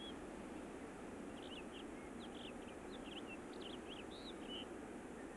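Purple martins chirping: many short, quick calls in loose clusters over a steady low hiss.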